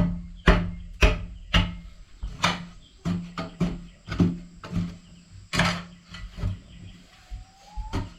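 Repeated strikes of a hand tool on hard material, about two a second at first, then softer and more irregular, with one louder knock a little past halfway.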